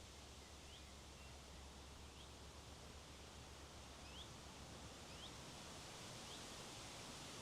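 Faint wind noise over a hilltop, with a few short, high, rising bird chirps about a second or two apart.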